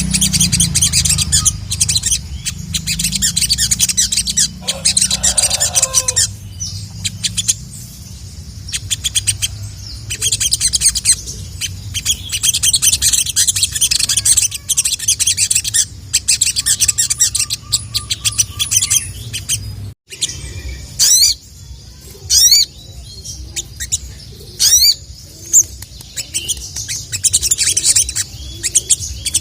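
Ruby-cheeked sunbird (sogon) song: a fast, dense, high chattering twitter. After a brief break about two-thirds of the way in, it gives way to a few loud, separate, sweeping whistled calls.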